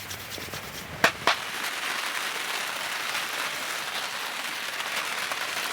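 Rain falling steadily on the roof of a bell tent, heard from inside, with two sharp clicks about a second in.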